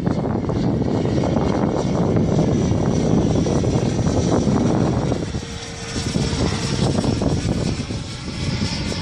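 90 mm multi-blade electric ducted fan of a radio-controlled BD-5J model jet whining high as the model flies past, over heavy wind buffeting the microphone.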